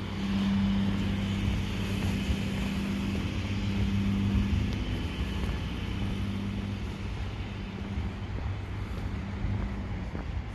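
Car engine running with a steady low hum under broad road or outdoor noise; the hum eases slightly after the middle.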